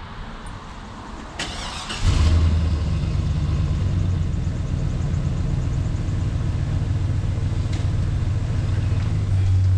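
Truck engine cranked by its starter and catching about two seconds in, then running steadily at idle with a low, even hum.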